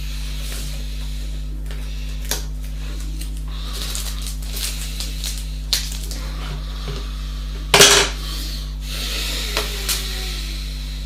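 Light clicks and clatter of hard objects being handled, with one louder clack about eight seconds in, over a steady low hum.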